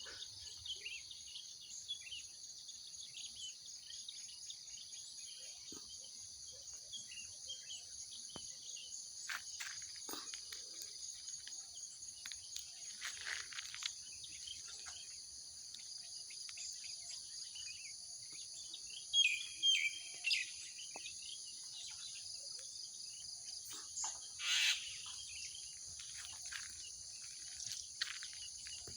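Mynas calling loudly at intervals, with a few sharp bursts of calls about two-thirds of the way in, over a steady high-pitched insect chorus.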